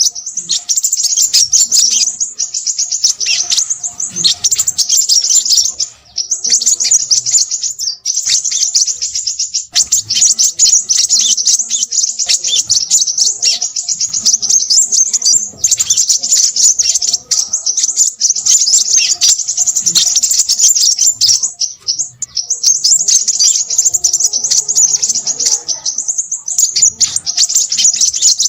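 Crimson sunbird singing noisily: a fast, dense, high-pitched twittering chatter that runs on almost without a break, pausing briefly a few times.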